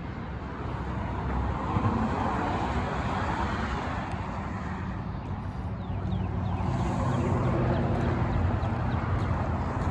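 Motor vehicle traffic: a steady low rumble with a faint engine hum that swells about two seconds in and again around seven seconds.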